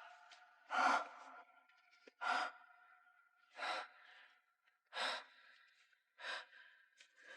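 A person breathing heavily, with a sharp breath or sigh about every second and a half.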